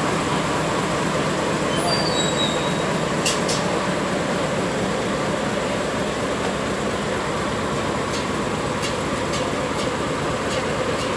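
Sagano Trolley Train carriage running on the rails with a steady rumble. A few brief high squeals come about two seconds in, and sharp clicks follow a second later and again several times near the end.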